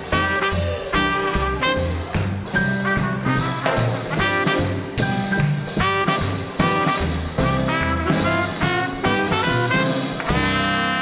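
A small-group swing band plays live: saxophone, trumpet, piano, bass and drums, with a walking bass line and a steady drum beat. About ten seconds in, the tune closes on a long held chord.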